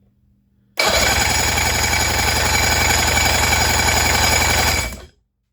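Two-stroke outboard motor cranked over by its starter for about four seconds with the throttle held open, spinning fast and evenly without firing, during a compression test. The cylinder reads almost 110 psi, good for a two-stroke. It starts about a second in and cuts off suddenly.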